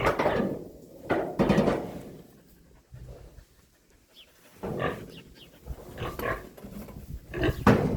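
A pig grunting in several short bursts.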